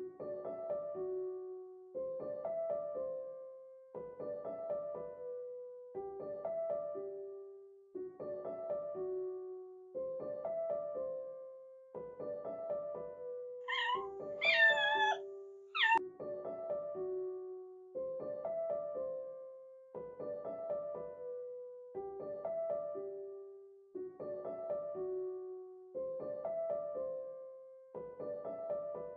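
A kitten meows a few times in quick succession about halfway through, with high gliding calls. Gentle piano music loops a short phrase about every two seconds.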